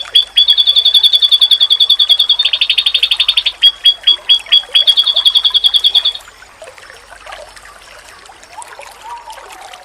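White-eye (pleci) singing a loud, fast run of rapidly repeated high notes for about six seconds, then stopping abruptly. A faint background of trickling water and animal calls continues afterwards.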